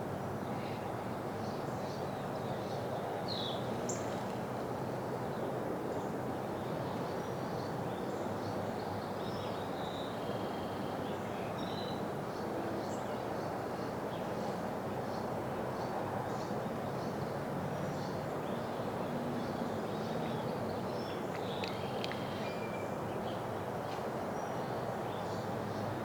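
Steady outdoor background noise with many short, high bird chirps and calls scattered throughout.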